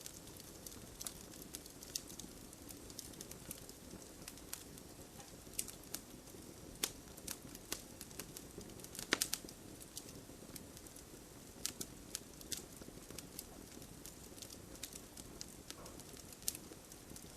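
Campfire burning: wood crackling and popping irregularly over a soft steady hiss, with a quick cluster of louder pops about halfway through.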